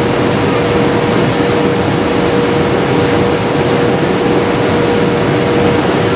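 Airliner cabin noise in flight: the steady rush of jet engines and airflow, with one steady mid-pitched tone running through it.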